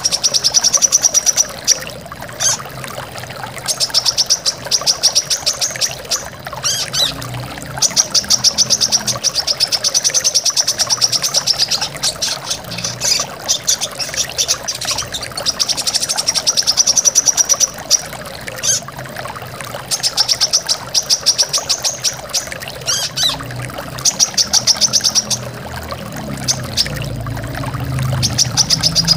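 Brown-throated sunbird (kolibri kelapa) singing repeated bursts of a fast, high trill, each a second or two long, over the steady rush of a waterfall or stream.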